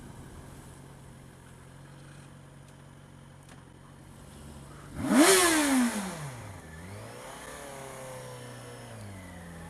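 Motorcycle engine running at a low, steady note, then revving hard about halfway through as the bike accelerates; the pitch sweeps up and then falls away over a second or so.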